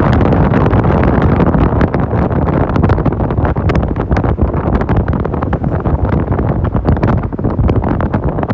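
Wind buffeting the microphone: a dense, steady low rumble with many sharp crackles through it.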